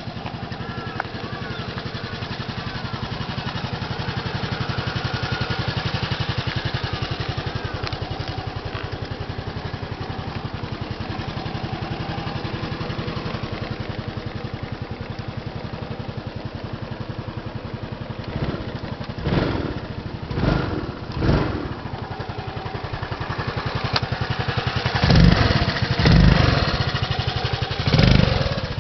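Honda Fusion XSE scooter's 250 cc single-cylinder four-stroke engine idling steadily. In the last ten seconds it is blipped about six times, in two groups of three, the later three louder.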